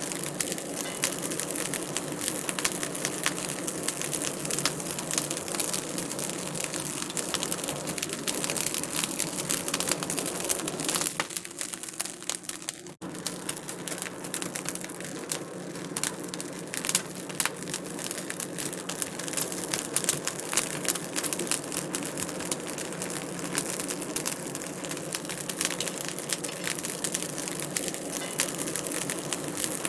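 Wood fire crackling in a fireplace, with a steady run of small pops and snaps over a soft hiss. The sound briefly drops out about thirteen seconds in, then the crackling carries on.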